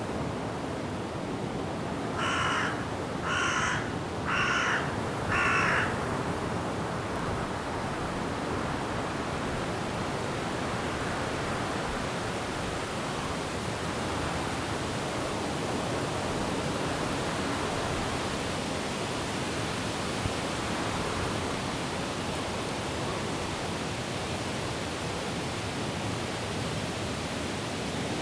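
Steady noise of wind and rain in forest trees, with a bird giving four loud calls, each about half a second long, a couple of seconds in.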